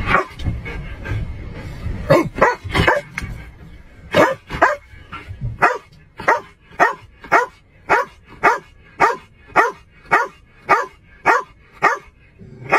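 Police K-9 dog barking inside a patrol car: a few irregular barks, then from about six seconds in a steady run of about two barks a second.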